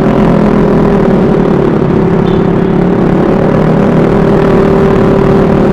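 Vespa S 125 scooter's single-cylinder engine running at a steady cruising speed while riding, a steady, even drone over road noise.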